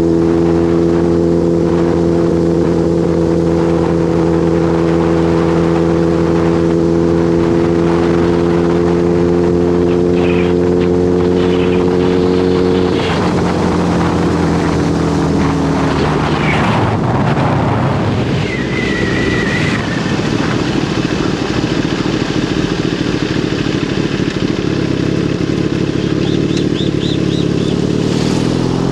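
Motorcycle engine running at a steady, held pitch. About thirteen seconds in, the note drops and fades into a stretch of rushing noise. Near the end, the engine note climbs again as the bike accelerates.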